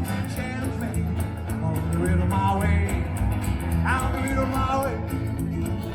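A band playing amplified music, with a steady bass line and a voice or lead line wavering over it.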